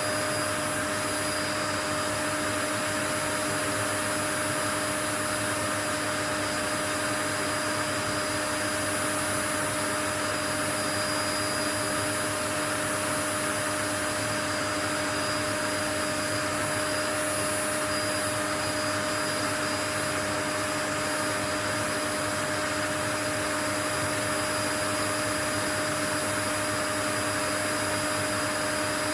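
Continuous white noise: an even, unchanging rushing hiss with a few faint steady tones running through it.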